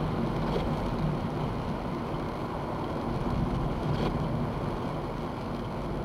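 Steady road and tyre noise of a car driving in the rain, heard from inside the cabin through a dashcam microphone.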